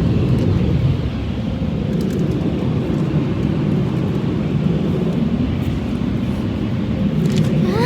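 Car wash drying blowers running, a steady loud rush of air heard from inside the vehicle's cabin, which sounds like an airplane. Near the end a child's short exclamation rises in pitch.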